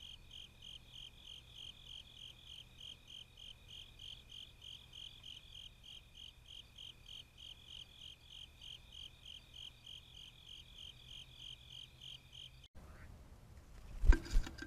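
An insect chirping steadily, about three to four even pulses a second, which cuts off suddenly near the end; two loud knocks follow.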